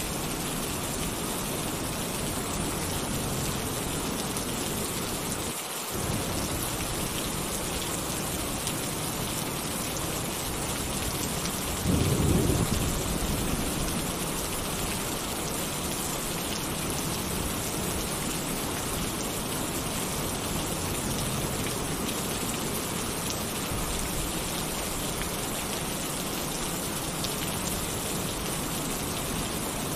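Heavy rain falling steadily on a tin roof. A short, low thunder rumble comes about twelve seconds in.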